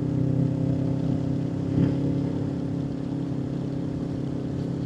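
Motorcycle engine running steadily at an even cruising pitch while riding through sweeping bends.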